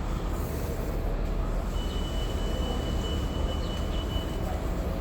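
Steady low rumble of rail and traffic noise at a train station, with a thin high-pitched whine for about two and a half seconds in the middle.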